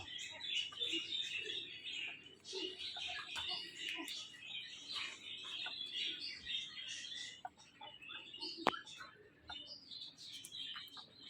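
Many small birds chirping at once, a dense continuous twittering, with one sharp click about eight and a half seconds in.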